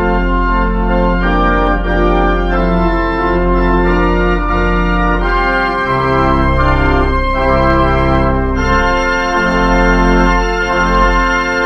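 Organ playing the closing postlude: sustained chords over a deep pedal bass, changing every second or so, with the sound growing brighter about nine seconds in.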